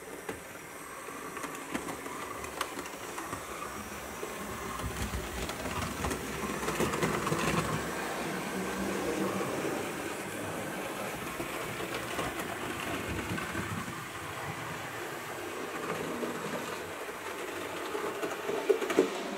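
Hornby model steam locomotive with a 5-pole skew-wound motor running round a model railway layout on DC: a steady whirring motor with wheels clicking over the track. It gets louder about a third of the way through and then eases off, with a few sharp clicks near the end.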